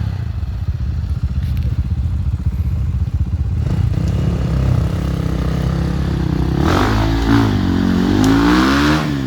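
Enduro motorcycle engine running close by, revved up and down several times near the end.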